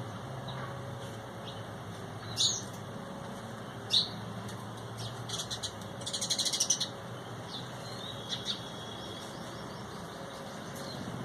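Birds calling: two sharp high calls a second and a half apart, then a fast chattering run of notes about 6 seconds in and a couple of short chips after it. A steady low hum lies underneath.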